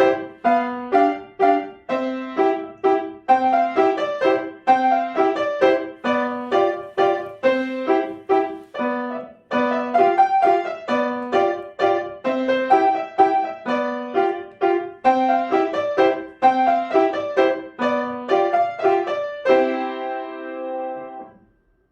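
Solo piano playing an evenly paced piece with a repeating low note under a moving melody, closing on a held final chord that stops abruptly a little before the end.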